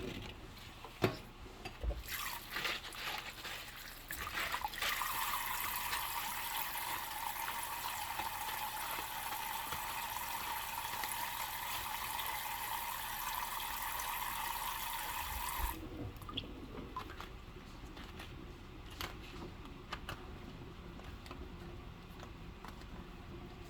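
Kitchen tap running steadily into a sink for about ten seconds, then shut off suddenly. Light clinks and handling sounds of dishes come before and after.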